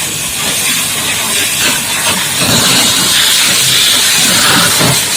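High-pressure water jet from a booster pump spraying a dump truck, a steady loud hiss.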